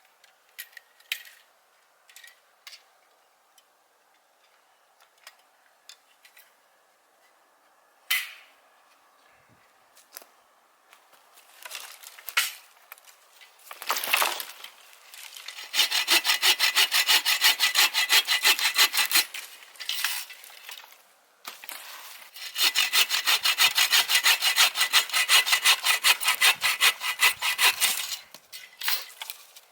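Hand saw cutting through firewood: a few scattered knocks while the log is set up, then two long runs of fast, even back-and-forth rasping strokes.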